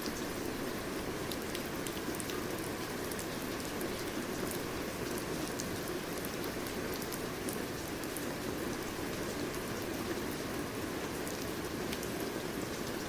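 Steady rain falling, with a dense hiss and many sharp individual drops pattering on a surface.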